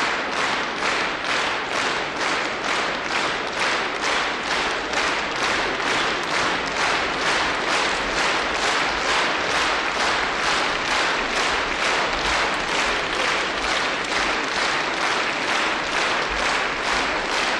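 Concert audience applauding, clapping together in a steady rhythm of about two and a half claps a second.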